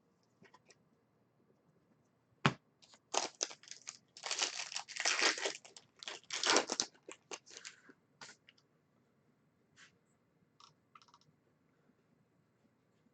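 A trading card pack's foil wrapper being torn open and crinkled by hand, in a run of rustling tears lasting about five seconds and starting with a sharp click, followed by a few light ticks as the cards are handled.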